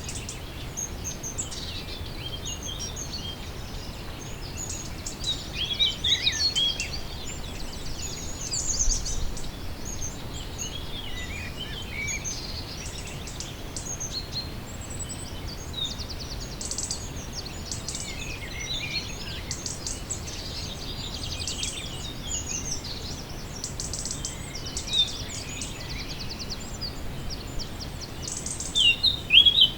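Several songbirds singing and chirping, with quick chirps, short whistles and rapid trills, busiest about six and nine seconds in and again near the end. A steady low background hiss and rumble runs underneath.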